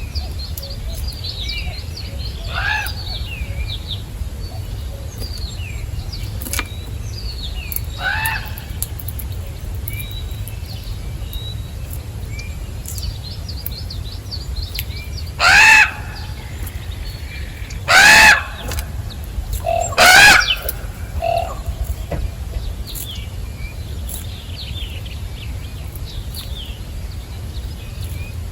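A crow cawing five times, two fainter calls then three loud ones close together, over small songbirds chirping steadily. A steady low rumble sits underneath.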